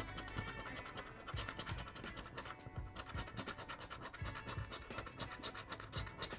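Scratch-off lottery ticket being scraped, its coating rubbed off in quick repeated back-and-forth strokes.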